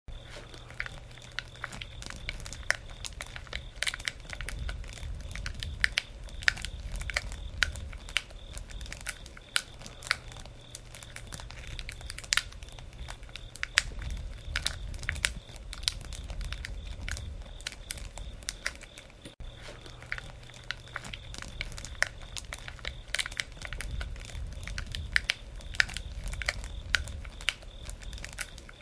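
Campfire of burning wood crackling, with irregular sharp pops and snaps throughout over a low rumble that swells and fades.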